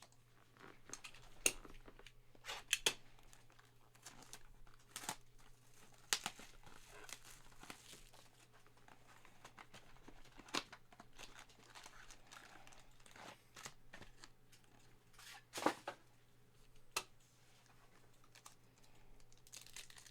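Trading-card box and pack wrappers crinkling and tearing open, with scattered rustles and clicks of the packaging and cards being handled, over a faint low steady hum.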